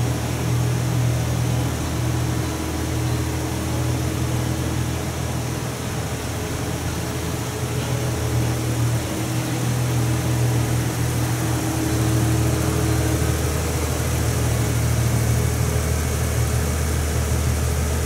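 2007 Ford Mustang's V6 engine running at a steady idle while the car rolls slowly forward.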